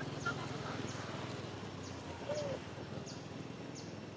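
A bird's short, high, falling call repeats about every two-thirds of a second over a low steady background noise, with one brief squeak a little past halfway.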